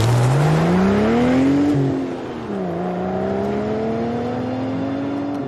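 Sports car engine accelerating away: revs climb, drop at a gear change about two seconds in, then rise slowly again as the car pulls off into the distance.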